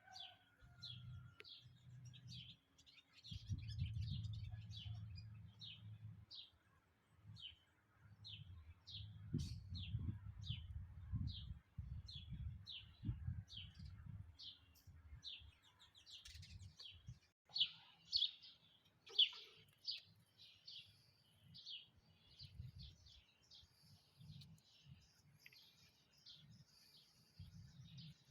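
Small birds chirping in short high notes repeated about twice a second, a few louder ones past the middle, over an intermittent low rumble.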